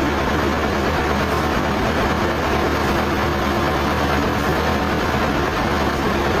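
Sawmill machinery running steadily: a low engine hum under an even, constant noise that does not change in level.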